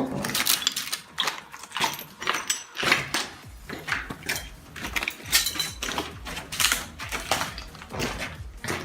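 Footsteps crunching and scuffing, about two steps a second.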